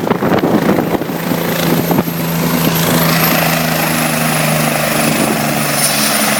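Helicopter running close by: fast rotor chop gives way after about two seconds to a steady hum and whine, with a thin high whine slowly falling in pitch.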